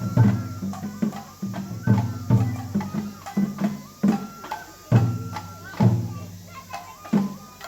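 Japanese festival music for a lion dance: deep taiko drum strikes about once a second, some doubled, under a high held melody, likely a bamboo flute.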